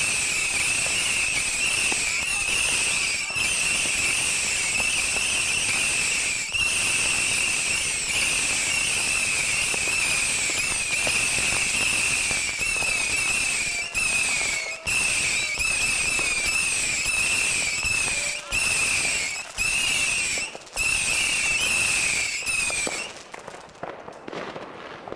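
Fireworks going off in a dense, continuous crackle with no gaps between bangs. It keeps up for over twenty seconds with a few brief dips, then stops shortly before the end.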